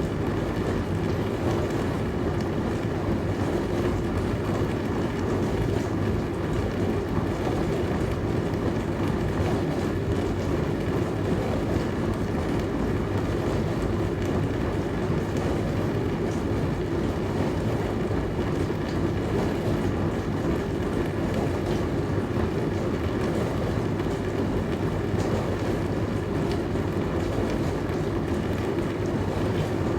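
Dishwasher running: a steady churning noise with a low, even hum beneath it.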